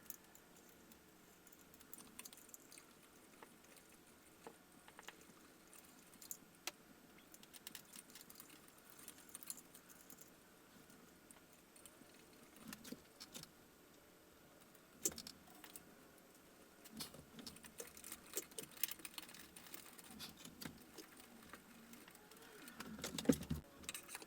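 Scattered small clicks and light metallic jingling from handling the ceiling fan's wiring and mounting hardware, busier and louder near the end.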